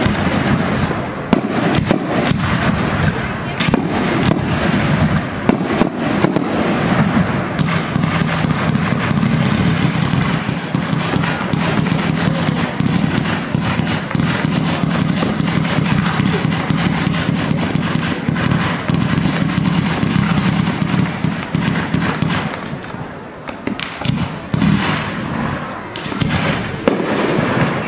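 Professional fireworks display: shells and comets firing and bursting in a dense, continuous run of bangs. It thins out and grows quieter about three-quarters of the way through, with a few sharp bangs near the end.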